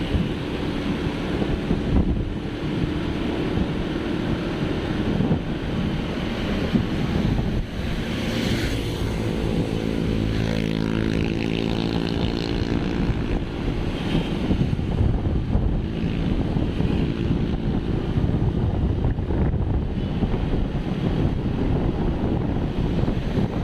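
Wind buffeting the microphone over the noise of a vehicle moving along a road. Around the middle, a passing engine's tone swells and fades.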